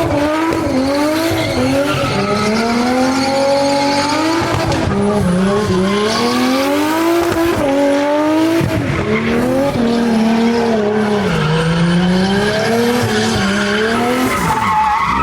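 Car engine revving high and dropping back again and again under throttle while drifting, with tyre squeal underneath.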